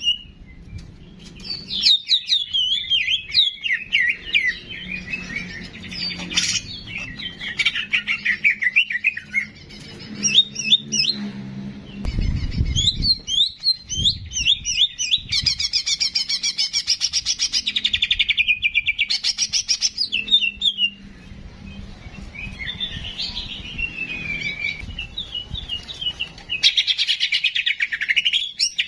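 Cicak jenggot songbird singing a long, varied run of quick chirps and trills, with a dense rattling trill around the middle. A low thump about twelve seconds in.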